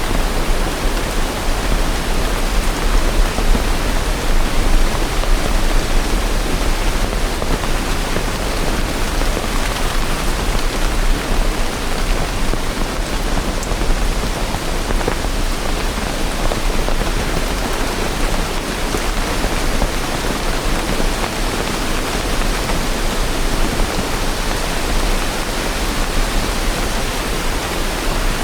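Steady rain, an even unbroken hiss with no distinct drops, gusts or thunder standing out.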